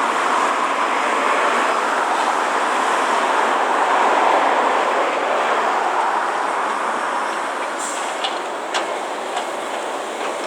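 Heavy construction machinery working: a loud, steady mechanical noise, with a few short sharp clicks near the end.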